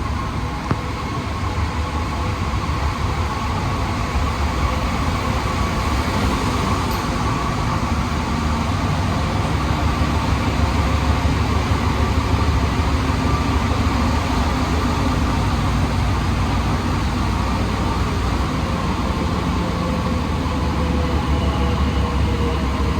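Inside a Santiago Metro Alstom NS-16 train car running between stations: a steady rumble of the wheels on the rails, with a faint steady tone above it. A single short click about a second in.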